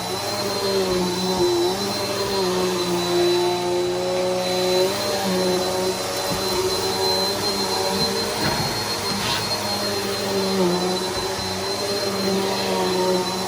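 Bissell PowerForce Helix upright bagless vacuum running steadily: a motor hum with a constant high whine, its pitch dipping slightly now and then as it works across the floor. A short noisy burst comes about nine seconds in.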